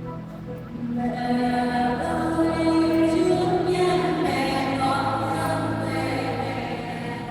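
Choir singing with a steady accompaniment of held notes underneath; the voices grow louder about a second in.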